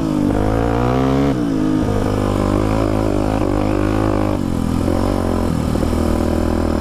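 Polaris Predator quad's engine under way on a trail, its pitch rising and falling with the throttle, with a sharp drop about a second and a half in and another a little past four seconds.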